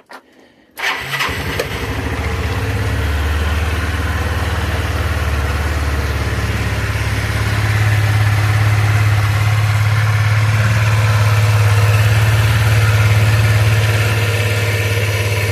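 1987 Yamaha Riva XC125 scooter's single-cylinder four-stroke engine starting about a second in and settling into a steady idle.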